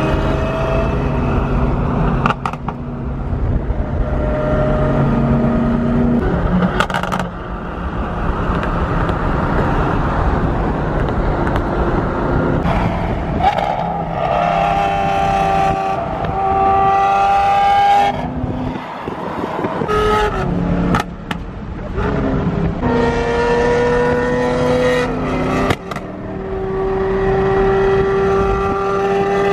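Car engine running while driving, its note rising under acceleration and stepping down as gears change, with a few sharp knocks.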